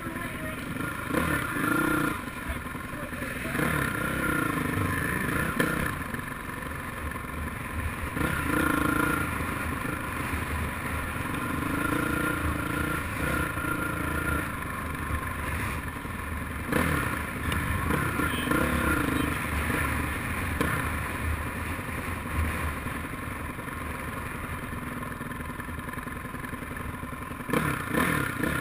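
Motocross dirt bike engines running on a track, their pitch repeatedly rising and falling every few seconds as the riders rev and back off.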